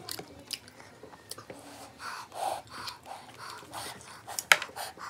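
Close-up chewing of mouthfuls of fried rice and chicken eaten by hand, with irregular mouth clicks; one sharp click about four and a half seconds in is the loudest.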